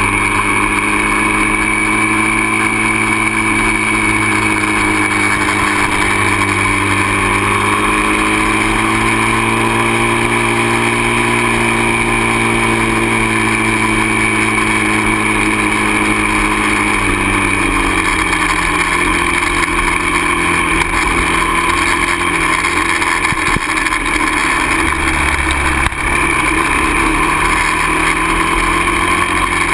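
Dirt bike engine running under way at a steady, moderate speed, its pitch rising and falling gently. About two-thirds of the way through it drops to a lower engine speed and holds there, over a constant rush of noise.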